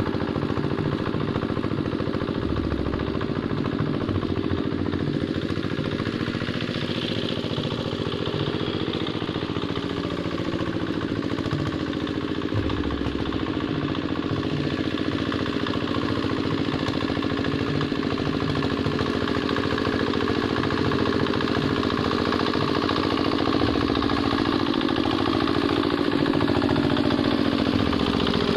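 Single-cylinder diesel engine of a Quick Capung Metal two-wheel hand tractor running steadily under load while ploughing a muddy rice field, with a fast, even chugging and some clatter.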